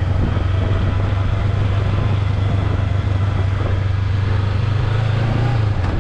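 Motorbike engine running steadily with a low hum, rising briefly about five seconds in.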